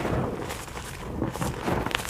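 White gym chalk being crushed: a soft crumbling crunch with small crackles, and a sharper crack at the start and another just before the end.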